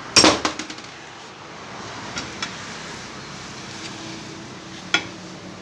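A short burst of rapid clattering knocks at the start, then a couple of light clicks and one sharp click near the end, over a steady faint hum: parts and tools being handled during front suspension and steering work.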